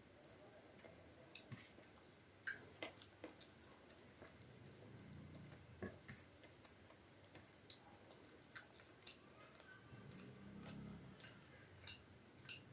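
Faint eating sounds from khichdi and chicken curry: scattered soft wet mouth clicks and squishes of chewing, with two brief low murmurs of chewing or swallowing.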